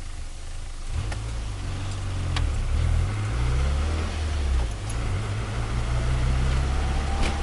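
Turbocharged Nissan Micra engine running, its low drone picking up about a second in and holding under load, with a few sharp clicks and a faint whine slowly rising in pitch over the second half.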